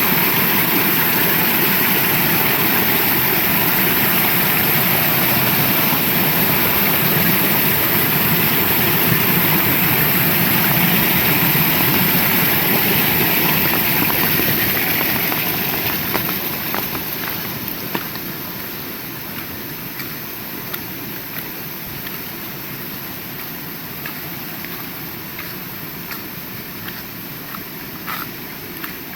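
Heavy rain falling steadily, easing about fifteen seconds in to lighter rain with scattered sharp drips.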